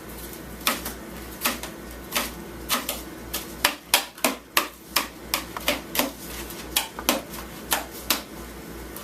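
Knife dicing a packed snowball: about twenty sharp chops at an uneven pace, coming quickest in the middle.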